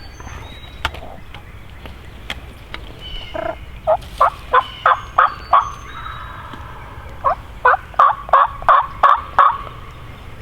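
Wild turkey gobbling close by: two gobbles, each a rapid rattling run of about seven notes, about three and a half seconds in and again about seven seconds in, with faint songbird chirps behind.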